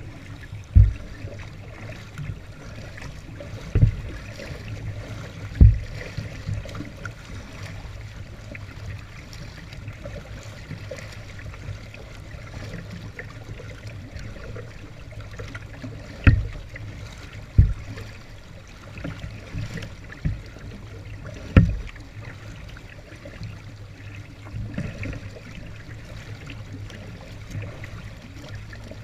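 Kayak paddling through still floodwater: water trickling and dripping off the paddle, with about seven sharp low knocks at uneven intervals.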